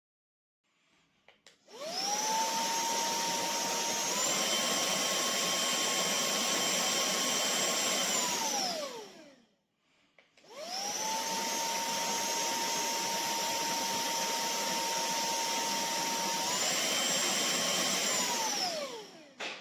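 TANYO cordless handheld vacuum cleaner switched on and run twice, each time for about seven seconds. Its motor whine spins up, steps up slightly in pitch partway through each run, then winds down as it is switched off.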